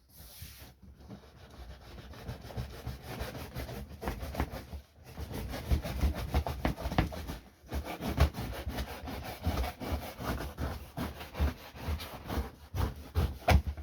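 Knife sawing and scraping through a cardboard shipping box in quick, uneven strokes, with two short pauses.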